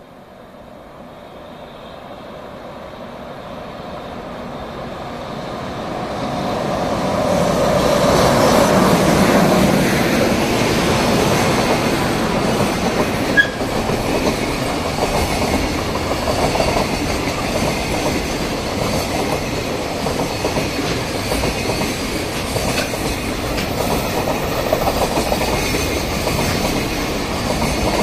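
Freight train hauled by an EH500 electric locomotive, approaching and then passing close by. The sound grows steadily louder over the first eight seconds or so, then settles into a steady rumble and clatter of container flat wagons rolling past, with one sharp click about thirteen seconds in.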